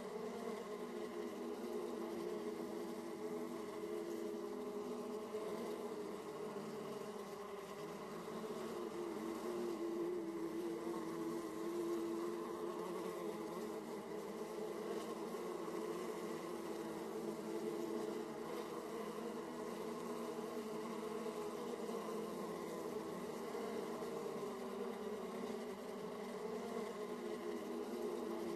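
Honeybees buzzing steadily at the hive entrance, a dense overlapping hum of many bees flying in and out.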